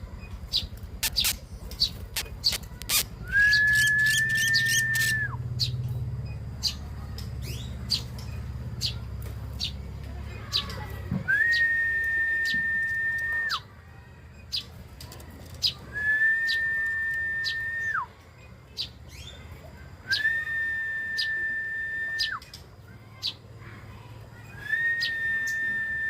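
Five long, level whistled notes, each held about two seconds and ending in a quick downward drop, with sharp clicks or taps sounding between them. A low rumble runs under the first half.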